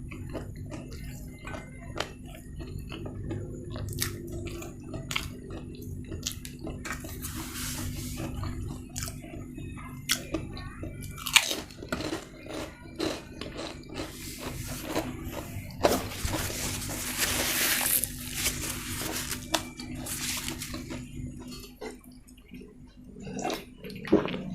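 Close-miked eating: chewing with frequent sharp, crunchy bites, and a few seconds of hissing noise a little past the middle.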